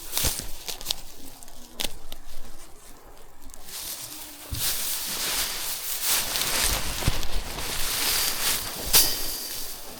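Hand threshing of harvested rice: dry paddy straw rustling and grain pattering, with sharp knocks as the sheaves are struck. The rustling thickens about halfway through, and a loud knock comes near the end.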